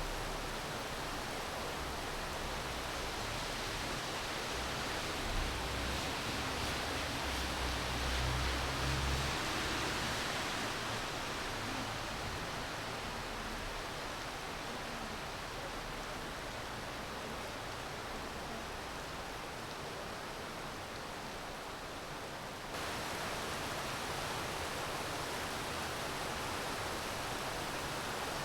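Steady hiss of falling rain. A low rumble swells under it for a few seconds early in the middle, and about two-thirds through the sound jumps abruptly louder and brighter, as at a splice in the recording.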